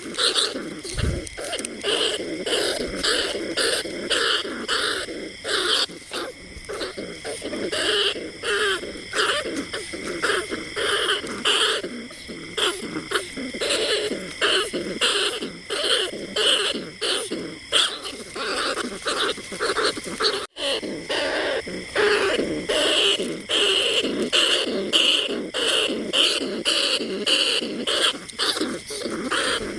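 Rat calls: a rapid, uneven stream of short squeaking cries repeating several times a second, the kind of recording played to lure bandicoot rats and field rats. The sound cuts out for an instant about two-thirds of the way through.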